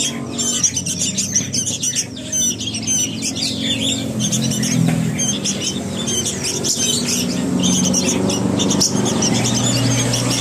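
Young sooty-headed bulbul (kutilang) chicks calling noisily: a dense run of rapid, harsh chirps, several birds at once, over a low steady hum.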